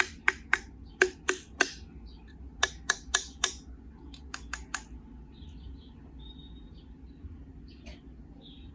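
Sharp hard clicks in three quick runs of three to five, from small die-cast toy cars and a plastic carry case being handled.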